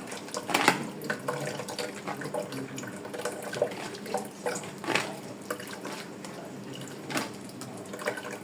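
Water running and splashing while soursop pulp is washed through to make juice, with a few sharper splashes or knocks: one about a second in, one around the middle and one near the end.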